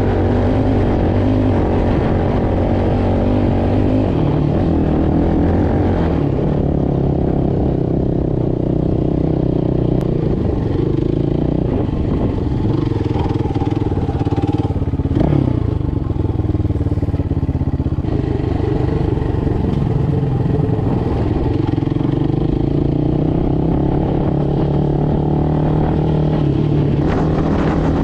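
Motoland Legend motorcycle engine running steadily under way. Its pitch dips briefly a little past halfway, then rises again.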